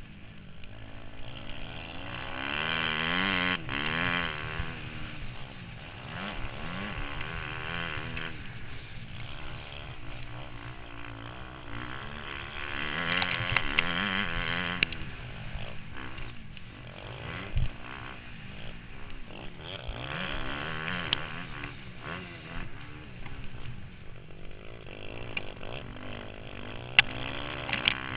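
Motocross bike engine being ridden hard, its pitch rising and falling as the throttle is opened and shut. It revs up loudest three times, about two, twelve and twenty seconds in.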